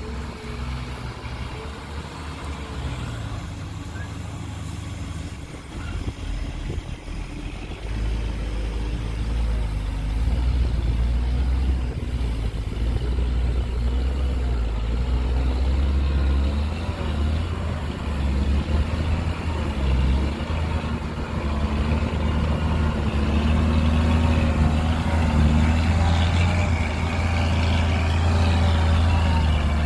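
Heavy diesel engine of earthmoving machinery running under changing load, its pitch shifting now and then and growing louder about eight seconds in.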